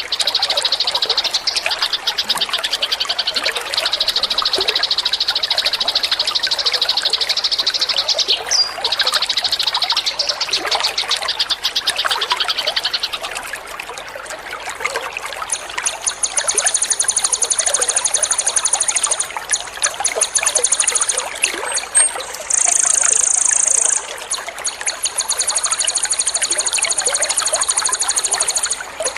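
Trickling water running steadily under rapid, continuous high-pitched bird trills. A fast trill fills the first half; from about halfway a higher, buzzier trill takes over, with a louder burst near the end.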